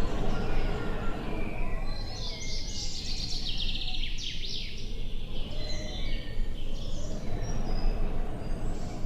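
Wind rumbling across the microphone, with small birds chirping in quick trills, busiest in the middle of the stretch.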